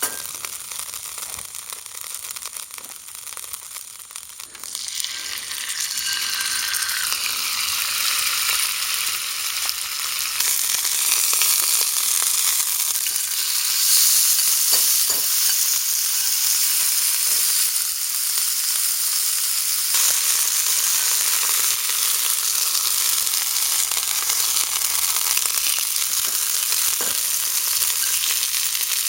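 Food sizzling as it fries in a pan. The hiss swells about five seconds in, then holds steady.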